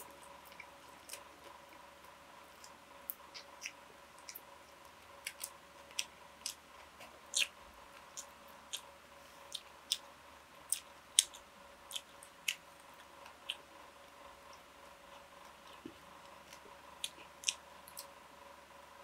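Close-up eating sounds: chewing, with short wet mouth clicks and smacks coming irregularly about once or twice a second, over a faint steady hum.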